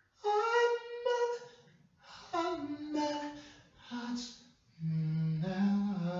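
A person humming or singing a wordless melody in short phrases of held notes, beginning high and stepping lower in pitch as it goes on.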